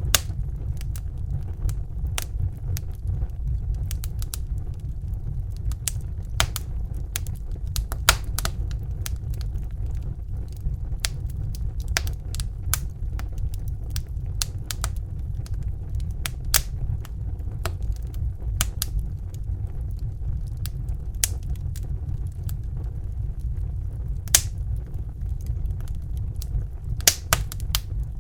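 Crackling fire: irregular sharp pops and snaps, some louder than others, over a steady low rumble.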